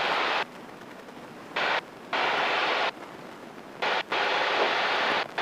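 Light airplane's engine and wind noise heard through the headset intercom as a loud steady hiss that cuts abruptly in and out several times, about every second or so, as the intercom's voice-activated squelch opens and closes.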